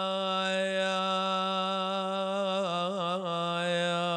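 Solo male voice chanting an Arabic elegy, holding one long steady note, with a few quick melodic turns about three seconds in.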